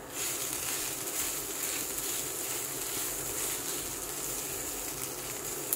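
Potato bhaji frying in a nonstick pan as it is stirred with a wooden spatula: a steady hiss that starts suddenly.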